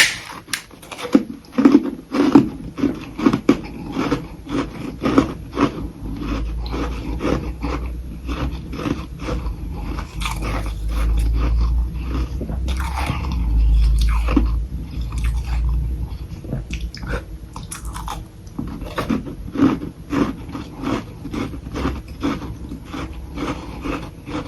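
Close-miked biting and chewing of soft humidifier frost sticks (freezer ice frosted over by a humidifier), a quick run of sharp, crisp crunches that goes on without a break. A low rumble sits under the chewing for several seconds in the middle.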